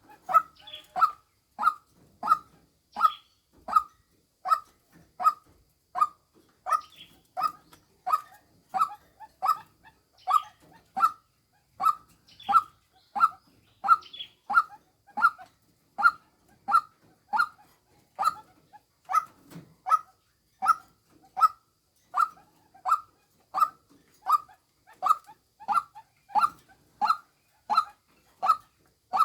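Female white-breasted waterhen lure call: one short note repeated steadily, about one and a half times a second.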